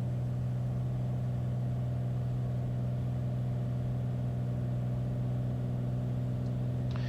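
Beechcraft Bonanza A36's piston engine and propeller droning steadily in the cockpit on final approach, with one strong low tone and a few fainter higher tones that hold constant.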